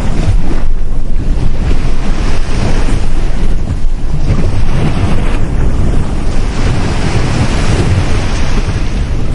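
Sea surf washing continuously onto a beach, with a swell of hiss about two-thirds of the way through as a wave breaks. Wind buffets the microphone with a low rumble.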